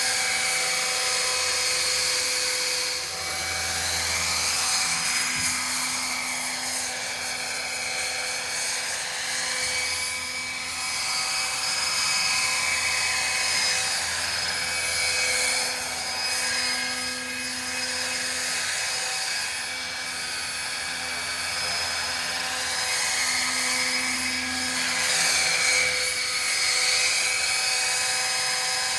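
Electric scale RC helicopter (Roban EC135) flying with its rotor head at about 1250 RPM. There is a steady high-pitched motor and gear whine over the rotor whoosh, and the tone shifts slowly up and down as the helicopter moves about.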